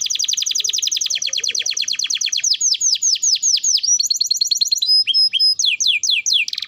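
Domestic canary singing a long rolling song: fast trills of rapidly repeated notes, broken by slower downward-sweeping notes and a short held whistle about five seconds in.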